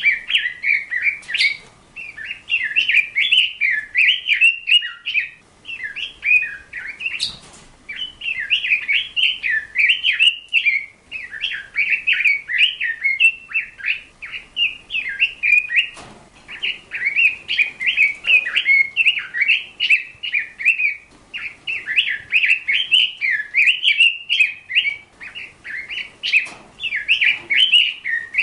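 Bird singing: rapid chirping and warbling in runs a few seconds long, with short pauses between them.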